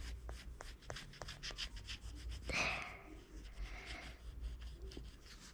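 Oil pastel scratching on paper in many short, quick strokes, its pointed tip drawing thin blades of grass.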